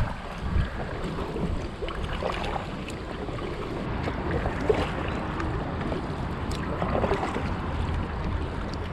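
Kayak paddle strokes dipping and splashing in the water, under a continuous low rumble of wind buffeting the microphone.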